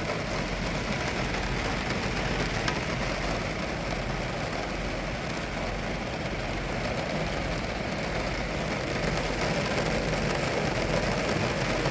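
Heavy rain falling steadily on the bus, heard from inside, over a steady low hum.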